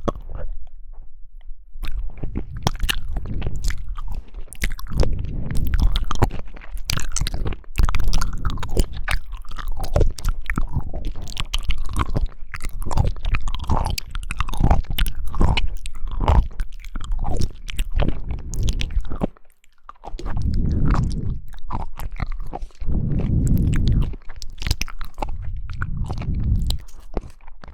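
A person chewing and biting into jelly, many small sharp clicks over wet mouth sounds, with a brief pause about two-thirds of the way through.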